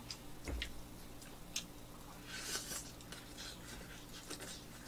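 Faint eating sounds of a person chewing buttered toast: small mouth and handling clicks, a soft thump about half a second in, and a brief rustle around the middle.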